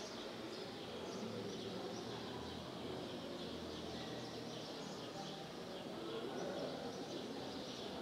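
Quiet room tone with a low steady hum and a few faint bird chirps.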